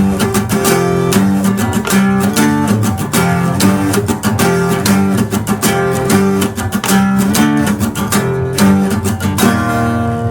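Acoustic guitar strummed in a steady rhythm, chords changing every second or so, with no singing; a last chord is struck near the end and left ringing.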